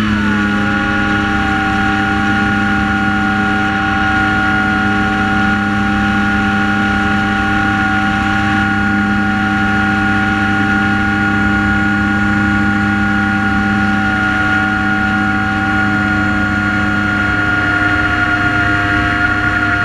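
Multirotor drone's motors and propellers whining steadily in flight. The pitch settles just after the start and dips slightly near the end.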